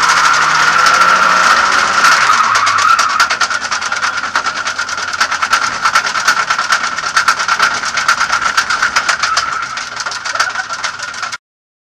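Lada 2101 rally car's four-cylinder engine heard from inside the cabin. Its revs fall over the first three seconds, then it runs at low revs under a rapid clattering rattle. The sound cuts off suddenly just before the end.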